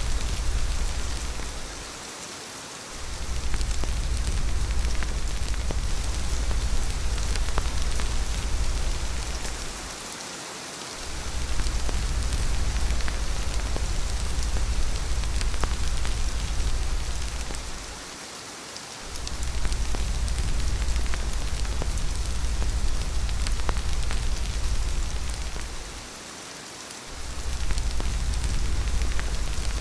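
Steady rain falling, an even hiss, over a deep low rumble that drops away for about a second four times, at regular intervals of roughly eight seconds.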